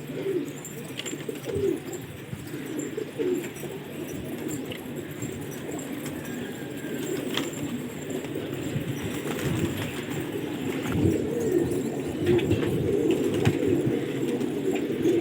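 Many domestic pigeons cooing together in a loft, a steady chorus of overlapping low coos that grows a little louder in the second half.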